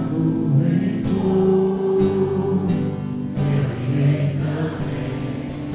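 Live worship music: a slow song's introduction with sustained chords and choir-like voices.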